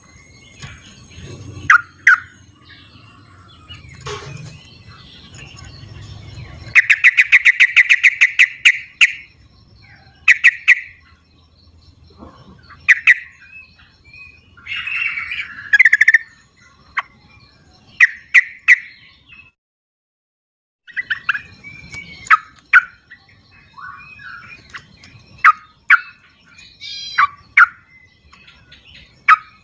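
Yellow-vented bulbuls (trucukan) calling repeatedly with short bubbly, chattering phrases, including a fast run of rapidly repeated notes about a quarter of the way through.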